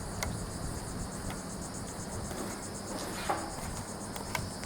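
Insect chorus, a steady high-pitched pulsing trill, with a couple of faint clicks.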